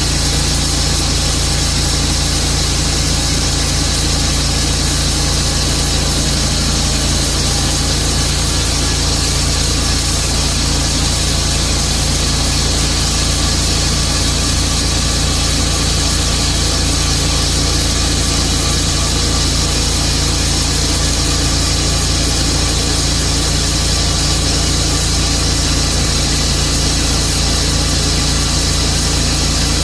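Tru-Cut sawmill's engine running steadily under load as the saw cuts through a large silver maple log, an even unbroken drone with hiss over it.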